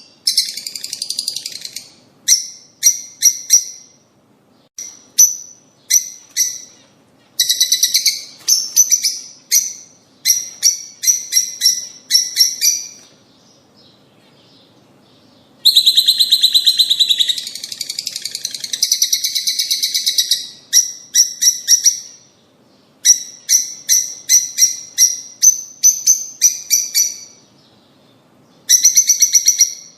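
Lovebirds calling in loud, shrill, rapid chirps, in bouts of a second or two with short pauses, and one longer unbroken stretch of chatter midway through.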